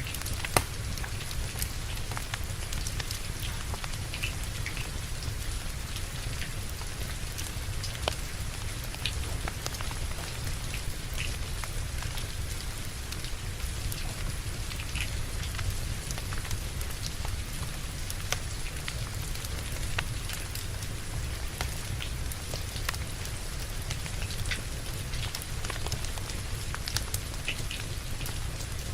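Steady rain mixed with a crackling wood fire: a constant hiss and low rumble with scattered sharp pops and clicks, one louder pop about half a second in.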